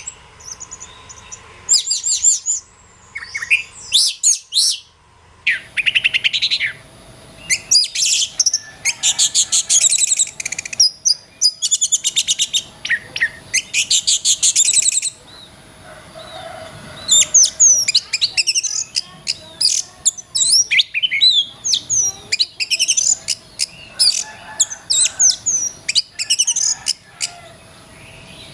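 Oriental magpie-robin (kacer) singing: quick phrases of varied chirps and whistled notes, broken by short pauses, with a faint steady hum underneath.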